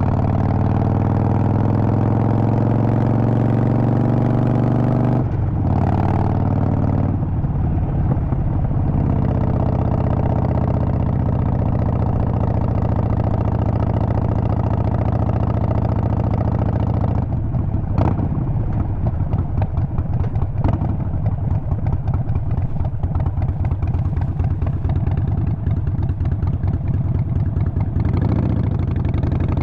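Harley-Davidson Sportster 48's air-cooled V-twin engine running under way, its pitch climbing slowly over the first five seconds, breaking off briefly around five to seven seconds in, then running on steadily. A single sharp click sounds around eighteen seconds in.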